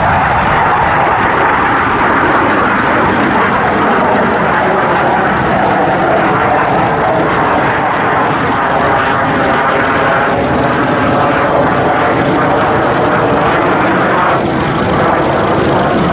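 Dassault Super Étendard jet aircraft engines running loud and steady, a continuous roar with no clear pass-by rise or fall.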